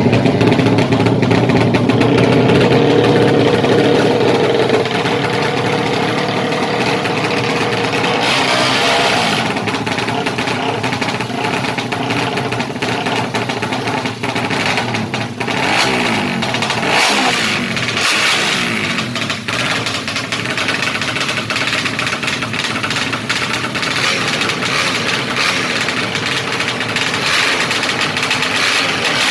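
Yamaha MX King single-cylinder motorcycle engine, fuel-injected and bored out to 200cc, running through a racing exhaust. It holds a steady note for the first few seconds, then is revved, its pitch dipping and climbing again around the middle.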